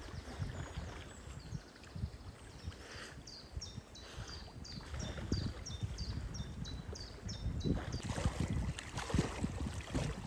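Lakeside ambience: gusty low wind rumble on the microphone with irregular soft buffets, getting busier near the end. In the middle a small bird sings a quick series of high, falling chirps, about three a second.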